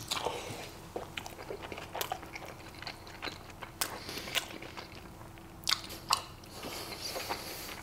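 Close-miked biting and chewing of a mouthful of barbacoa burrito in a soft flour tortilla: wet mouth sounds and small crackles, with a few sharper clicks around four and six seconds in.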